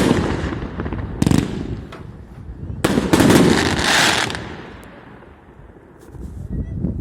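UPA SU 30-65 firework cake firing its last shots. A dense burst dies away, a sharp bang comes about a second in, and a bigger, longer burst with a hissing tail follows at about three seconds. It fades out by about five seconds.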